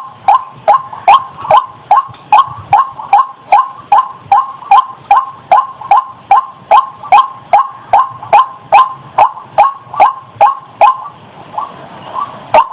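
White-breasted waterhen calling: a fast, even series of loud, harsh notes, about three a second. It breaks off briefly near the end, then starts again.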